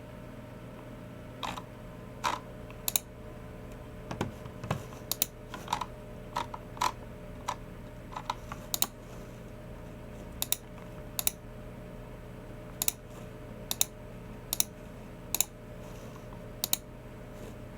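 Slow, irregular keystrokes on a Logicool MX Keys Mini scissor-switch keyboard mixed with sharp clicks of a Logicool G304 mouse's buttons, about twenty separate clicks in all, over a faint steady hum.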